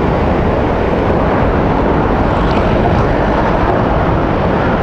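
Steady roar of a large waterfall: loud, even rushing noise with no let-up.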